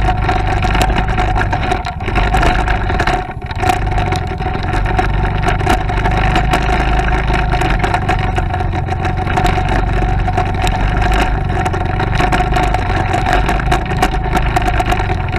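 Motorcycle engine running steadily while riding, with wind rumble on the microphone. The sound briefly drops about three seconds in.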